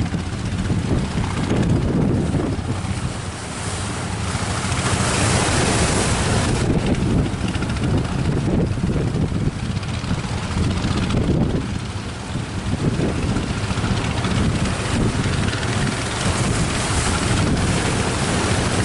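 Strong wind buffeting the microphone over surf breaking on the beach, with swells of wave hiss rising and falling.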